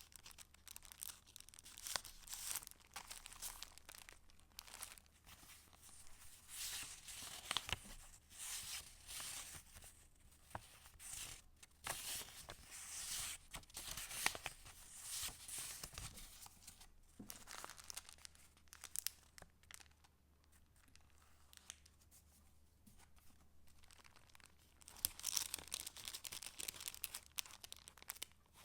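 Paper rustling and crinkling as the pages and paper pieces of a handmade junk journal are handled and turned, in irregular crisp crackles. The rustling eases off about two-thirds of the way through, then picks up again near the end.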